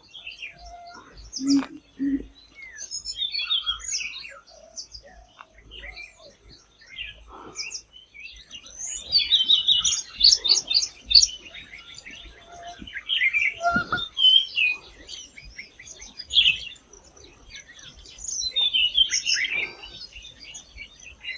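Tickell's blue flycatcher singing in bursts of rapid, high, twittering notes, with the densest run about halfway through. A few low, short sounds are also heard, twice near the start and once more later.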